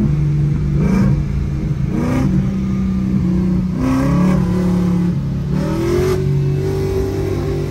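Ford Mustang's engine at full throttle through several upshifts, heard from inside the cabin: the pitch climbs and drops back at each shift.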